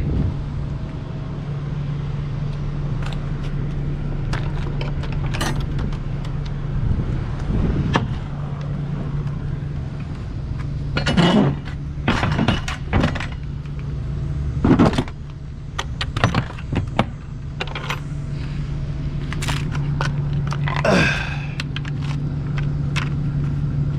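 Steady low hum of an idling truck engine, with scattered metallic clinks and clanks as cargo straps and edge protectors are gathered and handled. The clanks bunch together in the middle and again near the end.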